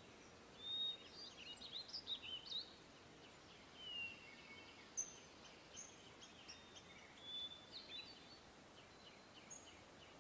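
Faint, scattered chirping of small birds: short high chirps and quick whistled glides over a low hiss.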